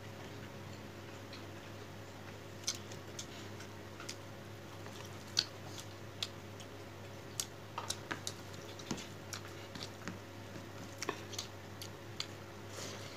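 Someone eating close to the microphone: irregular soft clicks and smacks of chewing, a few sharper ones scattered through, over a steady low hum.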